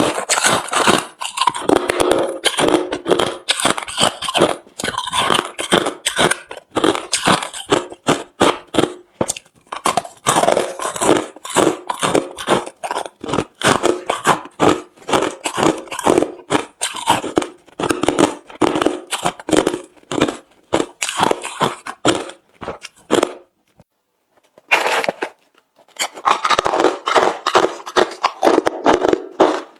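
Close-up chewing of refrozen crushed hard ice: rapid, loud crunches one after another, with a short pause about three-quarters of the way through before the crunching resumes.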